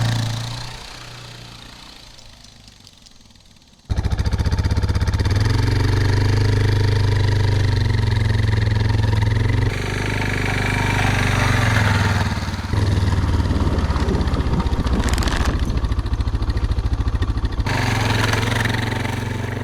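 Motorcycle engine running under way with a rapid, even firing pulse, dying away in the first second, then coming back loud and sudden about four seconds in, with several shifts in pitch. It is heard during an attempt to tow-start a second motorcycle that has a dead battery.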